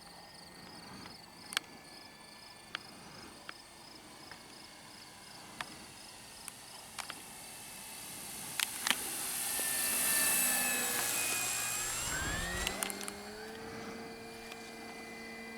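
Electric motor and propeller of an E-flite Cessna 150 Carbon-Z RC plane flying past with takeoff flaps set. The propeller hiss builds to a peak about two-thirds of the way through and then eases, and the motor's pitch rises near the end as the throttle is opened. Crickets chirp steadily underneath, with a few sharp clicks.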